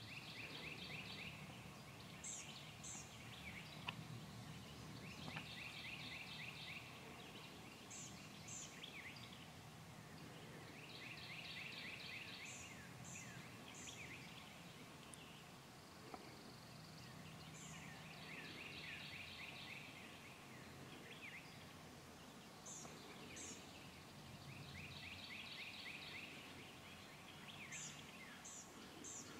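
Songbirds singing in woodland, faint. One bird repeats a phrase of rapid short notes about every five or six seconds, and another gives thin, very high notes in twos and threes. A faint low hum runs underneath.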